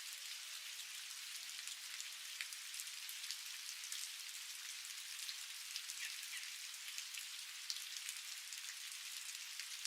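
Steady rain falling, an even hiss with many separate drop ticks scattered through it.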